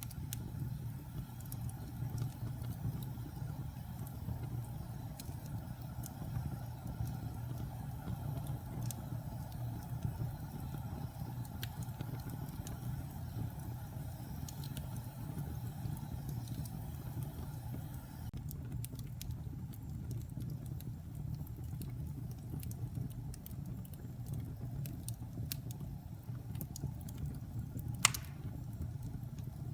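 Wood-burning fireplace fire: a steady low rumble from the flames with scattered small crackles, and one sharp, louder pop near the end.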